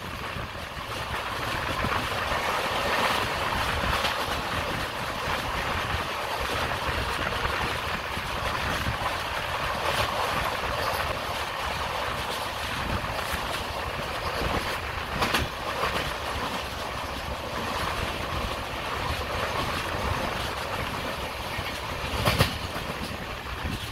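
Passenger coach of a moving express train running along the track, heard from the coach side: a steady rush of wheel-on-rail and air noise, with a few sharp wheel clacks, two close together past the middle and a louder one near the end.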